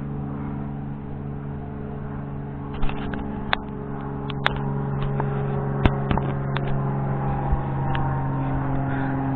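A vehicle engine running steadily with an even hum, with a few sharp clicks and taps about three to seven seconds in.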